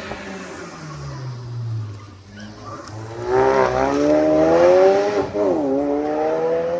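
Rally car engine accelerating hard, its note climbing, with a quick gear change about two-thirds of the way through before it pulls on again. A quieter engine note falls away before it.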